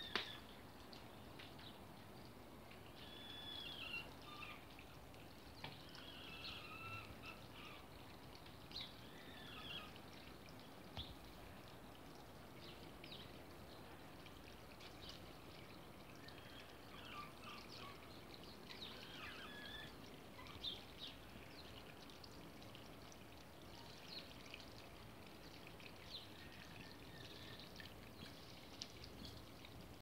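Garden birds chirping and calling on and off, short curved notes scattered throughout, over a steady faint trickle of water.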